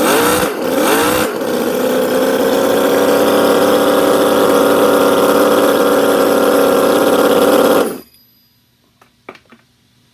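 Enjomor quarter-scale four-stroke V8 model engine revving in a quick blip, then held at a steady high speed for about six seconds before it cuts off abruptly. A faint hum and a couple of small clicks follow.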